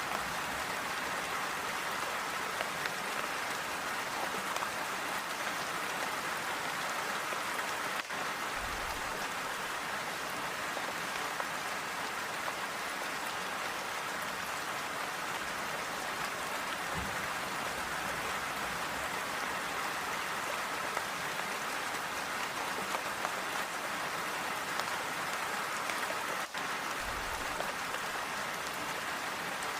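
Calm, steady rain falling.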